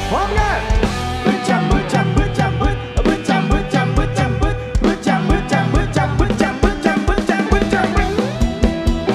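Live band music: a drum kit keeps a steady beat under bass and a melodic lead whose notes bend in pitch.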